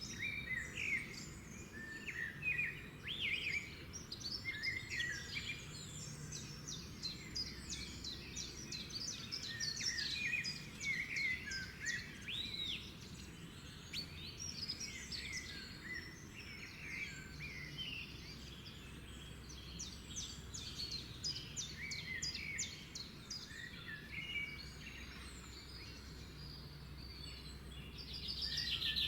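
Several birds chirping and singing together, short trills and whistled notes overlapping, over a faint steady outdoor background.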